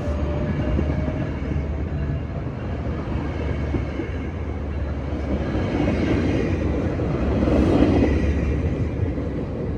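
Diesel-hauled train at a station: a steady low locomotive engine drone with the rumble of wheels on rails, growing louder about six to eight seconds in.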